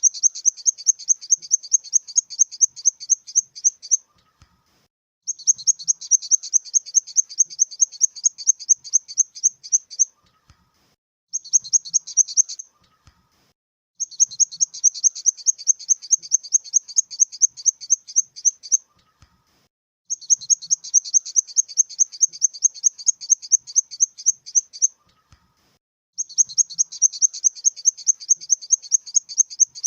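Grasshopper stridulating: trains of rapid, high, evenly spaced chirps, about six pulses a second, each lasting a few seconds with short pauses between. Six such trains, one of them much shorter than the rest.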